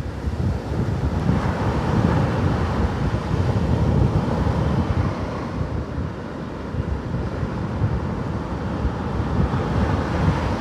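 Sea waves washing onto the shore, with strong wind buffeting the microphone in a heavy low rumble. The surf swells louder a couple of seconds in, then eases.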